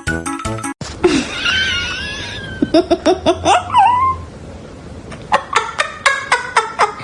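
High wavering squeals and a short burst of laughter, framed by snippets of plucky background music that cuts off less than a second in and returns about two seconds before the end.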